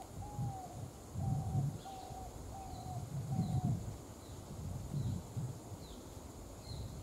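A bird calls a run of about six short mid-pitched notes, about two a second, which stops a little under four seconds in. Over it a second bird repeats a faint, high, down-slurred note, and low muffled rumbles come and go.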